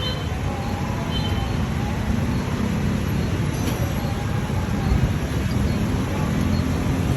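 Steady low rumble of a vehicle on the move, with engine and road noise running without a break.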